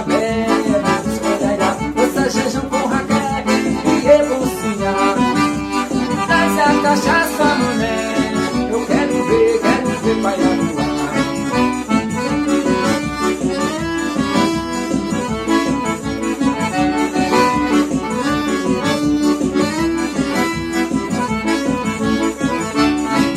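Instrumental forró music: an accordion plays the melody over a steady, driving percussion beat, with no singing.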